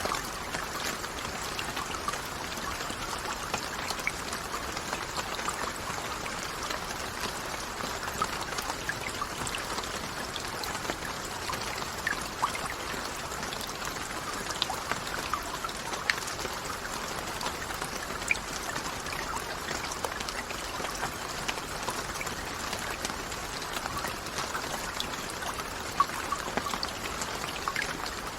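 Steady rain falling, an even hiss with many separate drops heard as small sharp ticks.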